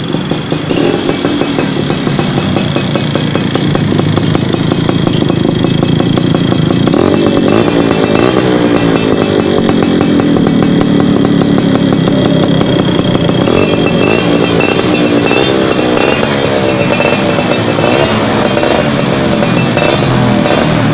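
Two-stroke Yamaha Alfa motorcycle engine running through a KRY Racing aftermarket racing exhaust, held at a fast idle at first, then revved up and let fall again and again from about a third of the way in.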